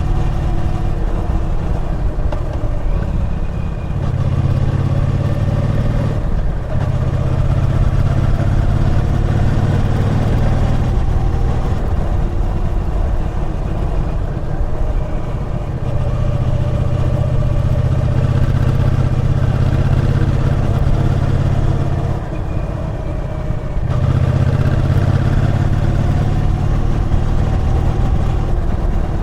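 Triumph Bonneville T120's parallel-twin engine running under way, pulling steadily. The engine note drops briefly about six seconds in and again for a couple of seconds around the twenty-two second mark, as the throttle comes off and back on.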